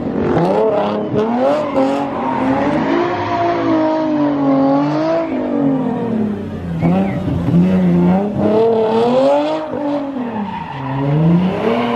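A car engine revving up and down over and over, its pitch swinging continuously, with tyres skidding: a car doing donuts or a burnout.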